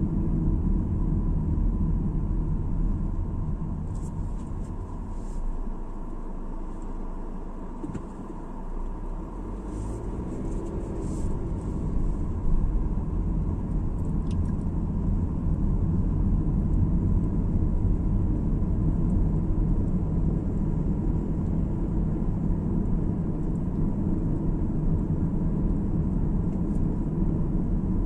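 A car driving on the road: a steady low rumble of road and tyre noise. It grows quieter for a few seconds about a quarter of the way in, then builds back up to a steady level. A few faint light clicks come through around that lull.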